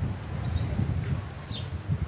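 Birds chirping in short, falling high notes over a low rumble on the microphone, the rumble being the loudest part.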